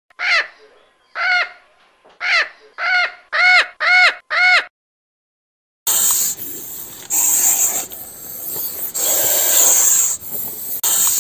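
A series of seven short, pitched animal calls, each rising and falling, coming faster after the first few. After a pause of about a second a steady, noisy hiss with a bright high edge takes over.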